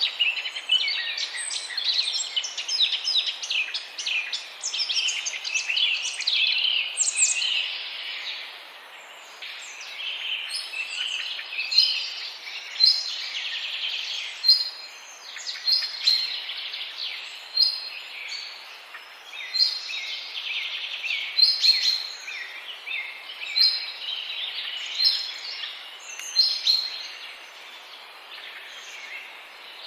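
Many small birds chirping and chattering at once, dense for the first several seconds, then thinning to sharper, separate high calls repeated every second or so.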